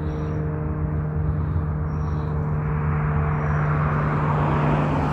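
A motor vehicle's engine running with a steady low hum, and a rushing swell that builds near the end. A few faint, short high peeps come every second or two.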